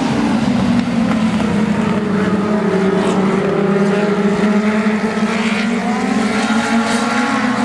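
A field of dwarf race cars, with small motorcycle engines, running hard under green on the restart. The engine pitch dips slightly in the middle and climbs again as they lift into a turn and power back out.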